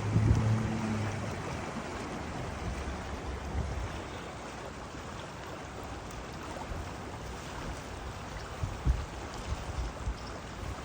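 Steady rush of flowing stream water, with wind buffeting the microphone now and then.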